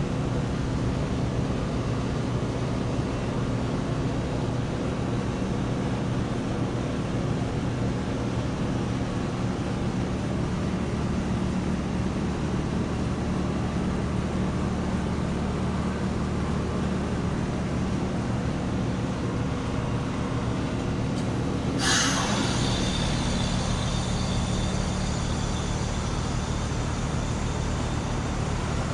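Outdoor heat pump units running steadily, a compressor and fan hum. About three quarters of the way through comes one sudden loud hiss, and after it the hum changes and a higher whine comes in.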